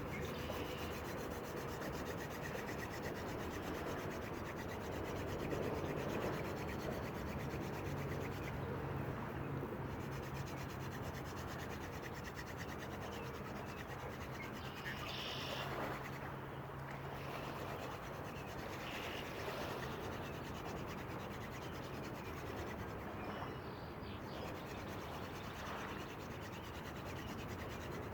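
Hand drill fire-starting: a wooden spindle spun back and forth between the palms, rubbing steadily in a notch of a hearth board to build friction heat for an ember.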